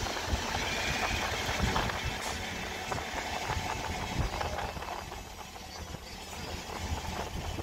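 Train running noise: a steady mechanical rumble and hiss, easing a little past the middle and building again near the end, with wind buffeting the microphone.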